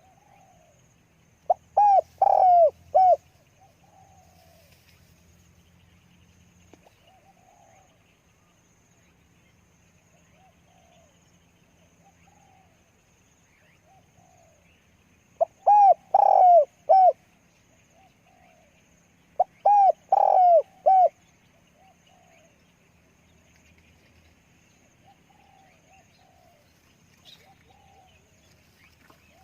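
Spotted dove cooing: three loud phrases of three or four short, round notes, about 1.5, 15.5 and 19.5 seconds in, with fainter coos from other doves calling between them.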